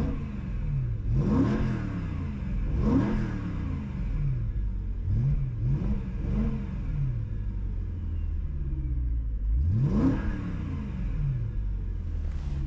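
BMW M3 V8 on its stock exhaust, revved in a string of quick throttle blips over the first few seconds and once more about ten seconds in, dropping back to idle between each.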